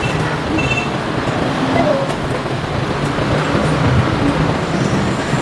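Steady vehicle and traffic noise with a low engine hum.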